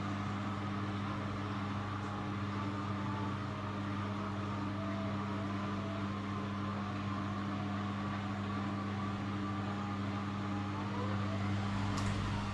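Miele W Classic front-loading washing machine running in its cotton 90 °C programme, a steady low hum with a faint click near the end.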